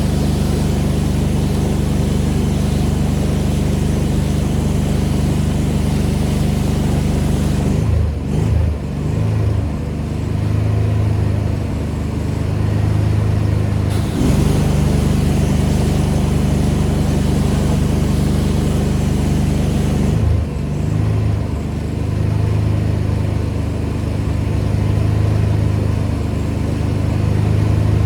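Pressure washer engine running steadily under the hiss of the high-pressure spray. The spray cuts off about eight seconds in, starts again around fourteen seconds and cuts off again around twenty seconds. Each time the engine note wavers and shifts as the load changes.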